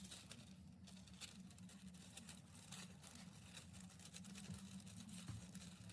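Near silence: a faint steady low hum with scattered soft ticks and light rustling.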